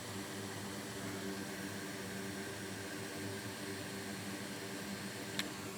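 Steady whirring hiss of a small electric fan with a low hum underneath. One short click comes near the end.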